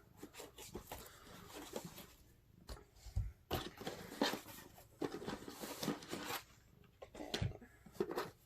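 Packaging being handled as a subscription box is opened and unpacked: irregular rustling and crinkling with a few light knocks.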